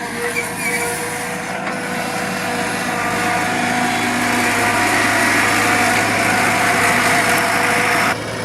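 Excavator engine running with a hydraulic whine that builds over several seconds, then cuts off suddenly near the end.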